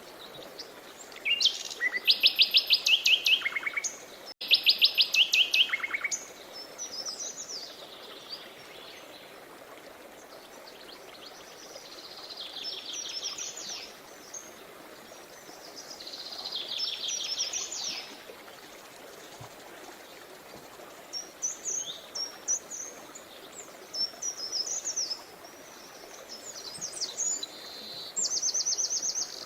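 Songbirds singing: two loud fast trills of rapidly repeated notes in the first few seconds, then softer chirping phrases every few seconds. Under them runs a steady faint rush of a river.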